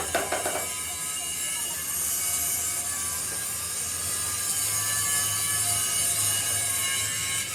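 A machine running steadily with a high whine made of several steady tones, and a low hum joining about halfway through.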